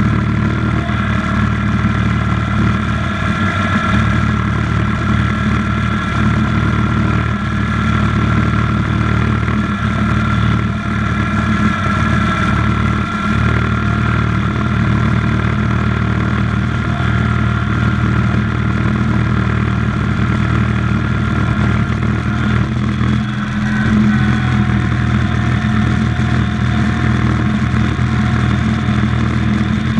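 IH Cub Cadet 147 garden tractor's single-cylinder Kohler engine running steadily under load while plowing snow, with a thin high whine over the engine note that fades about three-quarters of the way through.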